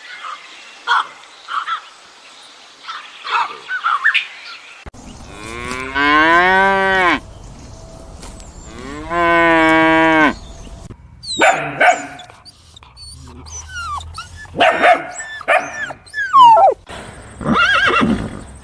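Cattle mooing: two long, loud moos about six and nine seconds in, among shorter calls.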